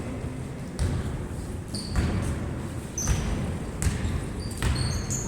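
Basketball bouncing on an indoor court floor, irregular thuds roughly once a second, with short high squeaks toward the end.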